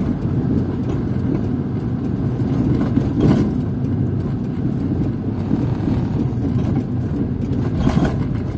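Steady low rumble of a car's engine and tyres on the road, heard inside the cabin while driving, with two brief louder swishes, one about three seconds in and one near the end.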